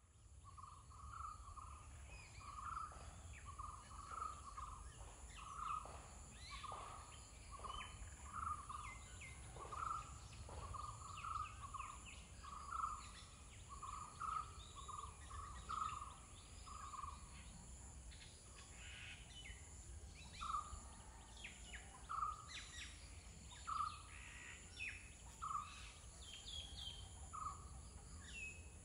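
Birds calling in the background: one bird repeats a short call over and over, about one to two a second at first and then every second or two. Other birds add scattered higher chirps over a steady high-pitched hiss and a low rumble.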